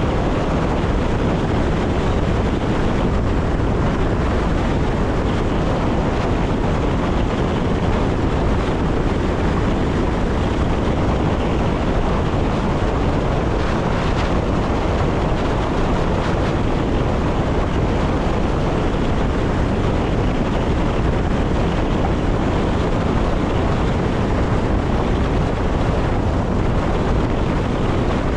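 Steady rumble and wind noise of an electric passenger train running at speed, heard from the driver's cab.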